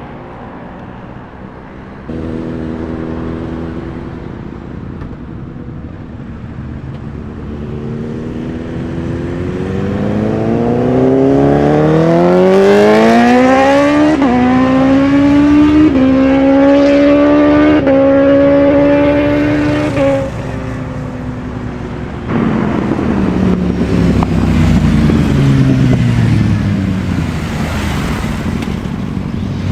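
A high-revving sport motorcycle engine accelerating hard. Its pitch climbs steeply, then rises in short steps through quick upshifts about every two seconds, and cuts off suddenly. A long falling engine note follows near the end.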